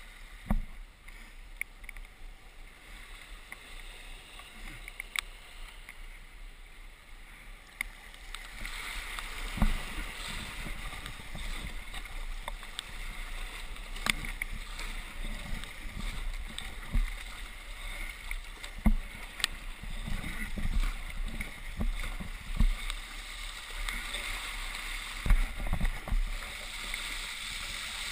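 Fast tidal current rushing through a narrow pass on a strong ebb, a steady watery hiss that grows louder about eight seconds in. Scattered low thumps come through as well.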